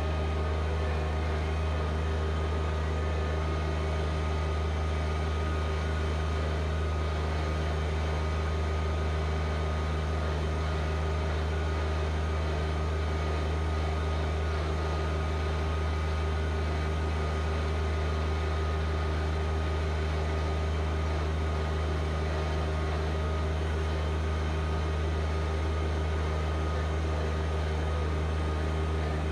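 Compact diesel tractor engine, a John Deere 1025R, running at a steady speed throughout, an even drone with no change in pitch.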